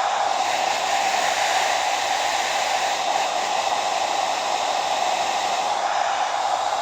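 Hair dryer running steadily: a constant airy hum with a strong mid-pitched tone inside the rush of air, and a slight shift in the upper hiss about half a second in and again near the end.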